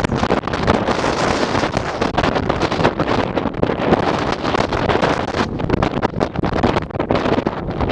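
Strong gusting wind buffeting the microphone: a loud, dense rushing noise that keeps swelling and dipping.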